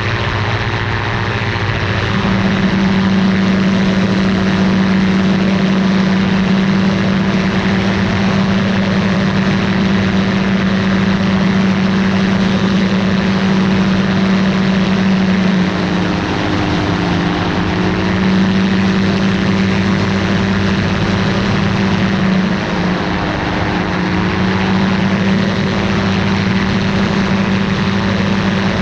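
Ultralight aircraft's engine and propeller running steadily at power. The engine note rises about two seconds in and sags briefly twice later on.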